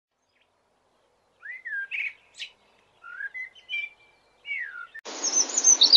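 A songbird singing short, separate phrases of gliding, mostly falling notes. About five seconds in, the sound cuts abruptly to a steady outdoor hiss with more high bird chirping over it.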